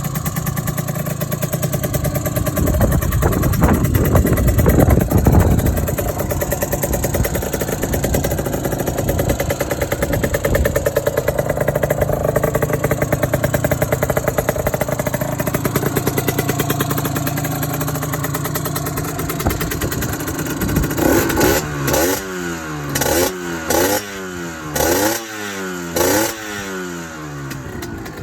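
Honda NS-1's bored-up two-stroke single idling, rising in a rev a few seconds in, then given a series of quick throttle blips near the end, each falling straight back to idle.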